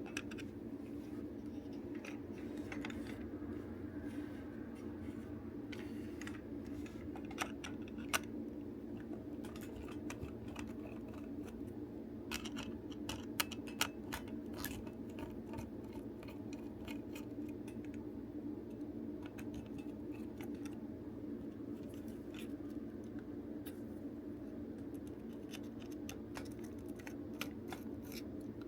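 Small clicks, taps and scrapes of plastic toy parts and small tools being handled while a toy belt is taken apart, with a few sharper ticks, over a steady low hum.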